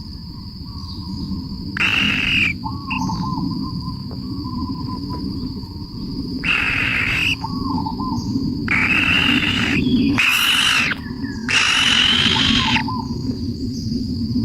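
Wildlife ambience: a steady high insect drone over a low rumble, with small repeated chirps and five harsh, noisy bird calls about a second long each.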